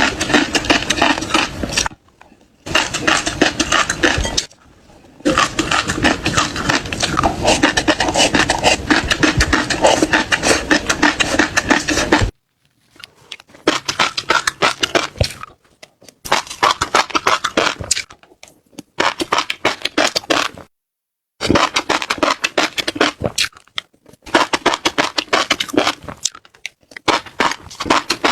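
Dense, crisp crackling of seeds, a rapid run of tiny clicks, in stretches broken several times by sudden dead silences.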